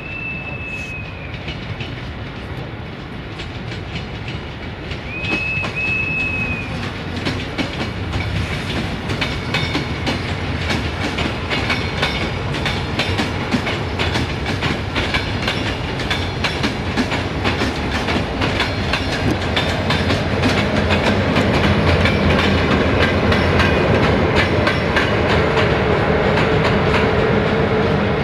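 Train rolling through a station, wheels clicking over rail joints and points, growing louder as it comes closer. Two short high-pitched tones sound in the first few seconds.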